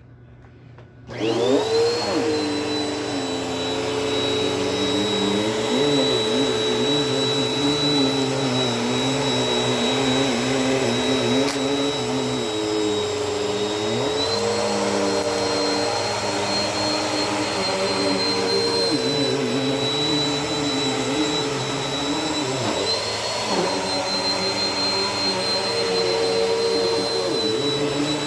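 Bissell vacuum cleaner switched on about a second in, its motor spinning up to a steady whine and then running as it vacuums a rug. Its pitch shifts slightly a couple of times.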